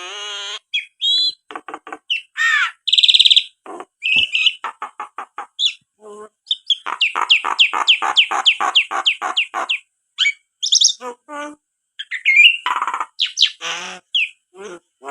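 Pet myna chattering and whistling, a varied string of chirps and short calls, with a fast run of repeated downward-sweeping notes, about four a second, in the middle.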